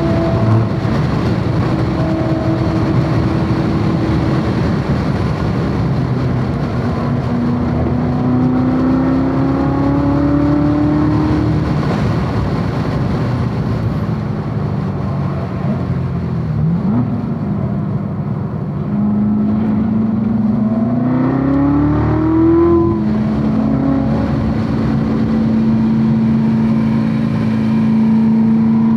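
Supercharged V8 of a C7 Corvette Z06 heard onboard at track speed, over steady wind and road noise. The engine note climbs and drops with the revs, rises sharply and falls away about two-thirds through, then holds a steady note near the end.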